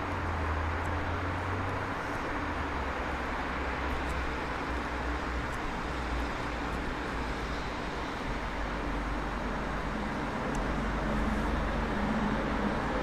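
Electric regional multiple-unit trains rolling slowly through the station tracks. A steady rolling noise with a low, steady hum underneath.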